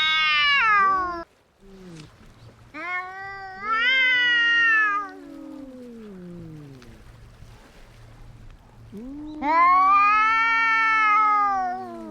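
Cats yowling at each other in a fight: three long, wavering wails. The first cuts off abruptly about a second in; the other two each last about two to three seconds. A lower voice slides down in pitch under the middle wail.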